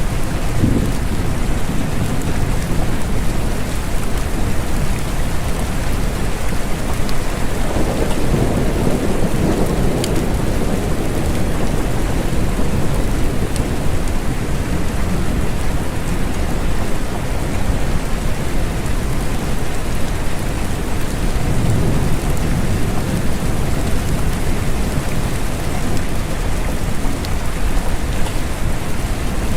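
Steady rain falling, with a deep low rumble about eight seconds in and another a little past twenty seconds.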